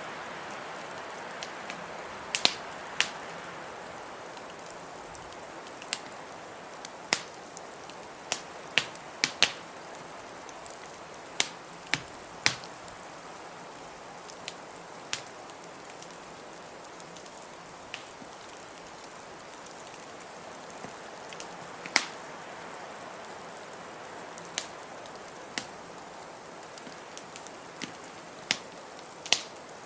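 A wood fire crackling, with sharp, irregular pops about once a second, over a steady whoosh of blizzard wind that swells a little near the start and again around two-thirds of the way in.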